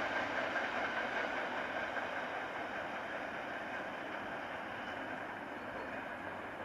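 Passenger train pulling away into the distance, its rolling noise on the rails a steady rumble that slowly fades.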